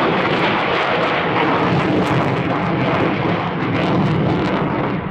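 F-16 fighter jet flying an aerobatic display, its engine noise a loud, steady rumble throughout.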